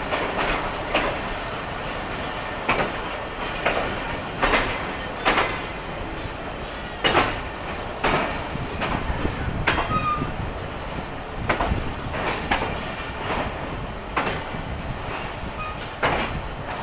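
Passenger train rolling slowly into a station, its wheels knocking irregularly over rail joints and points under a steady rumble, with a few brief faint wheel squeals.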